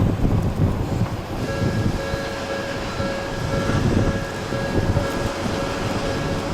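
Odakyu Line train running past at the level crossing: a continuous rumble of wheels on rails, with a steady whining tone joining about a second and a half in.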